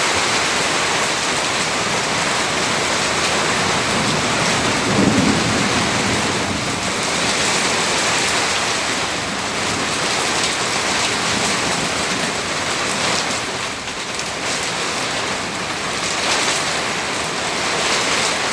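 Heavy rain pouring down steadily during a thunderstorm, with a brief swell of low sound about five seconds in.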